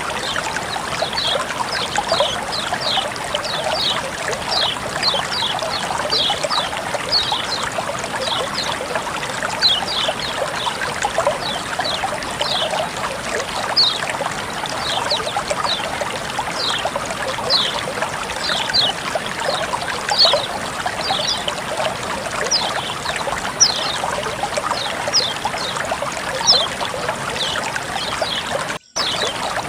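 Running water trickling and splashing steadily, with many short, high plinks on top, several a second. The sound cuts out for an instant near the end.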